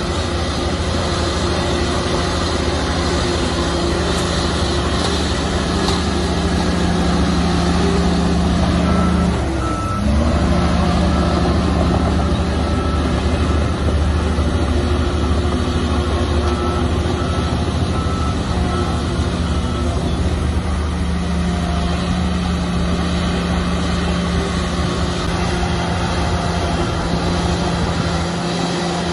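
Heavy diesel engine of earthmoving machinery running steadily, with its pitch dipping and falling briefly about nine seconds in. A reversing alarm beeps at an even pace from about ten seconds in to about twenty seconds in, as a machine backs up.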